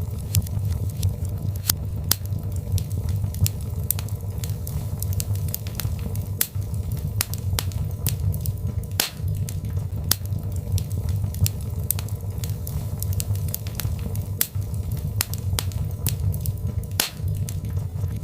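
Birch logs burning in a fireplace: a steady low rumble of the flames with frequent sharp, irregular crackles and pops.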